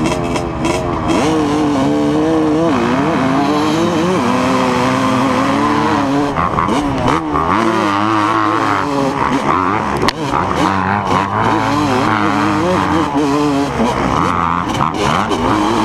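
Several pit bike engines revving together in a race, their pitches rising and falling one over another as the riders work the throttle.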